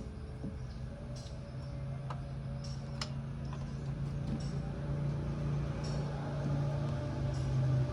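Hero Glamour's single-cylinder engine running steadily, with scattered light ticks over the hum.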